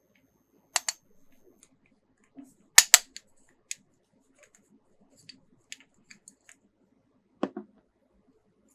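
Hard plastic toy parts and packaging being handled: sharp clicks and snaps, with a double snap just under a second in and a louder double snap about three seconds in, scattered light ticks, and a duller knock near the end.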